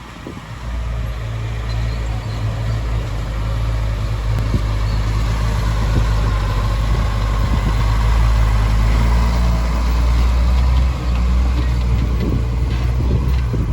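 Heavy diesel engine of construction machinery running steadily with a low, even hum, growing louder over the first second or so.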